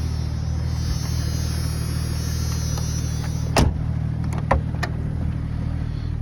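Jeep Cherokee XJ's 4.0 inline-six idling steadily, heard from inside the cabin with the heater fan blowing. A sharp click comes a little past halfway, followed by a few lighter clicks.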